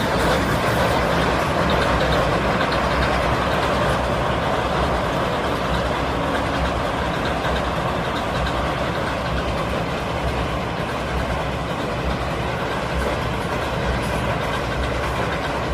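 A train passing on the railway line, a loud steady rumble and rush of wheels on rails.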